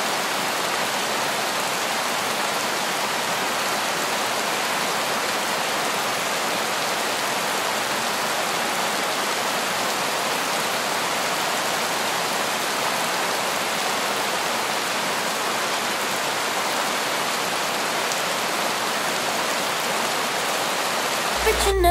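Steady rain falling on a wet street, an even hiss that does not change.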